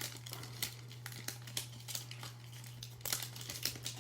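Crinkling and tearing of a trading card pack's wrapper as it is opened, in a string of short crackles that bunch together near the end.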